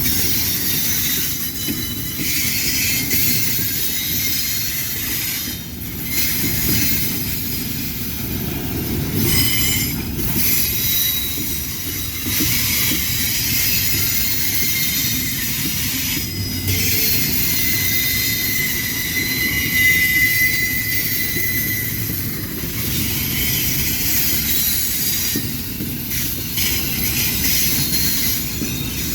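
Freight train rolling past, its steel wheels rumbling on the rails, with thin high-pitched squeals from the wheels that grow clearer past the middle.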